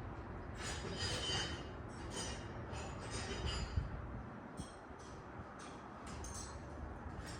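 Scattered light clinks and rattles with a steady low rumble underneath, and one sharper knock a little before the middle.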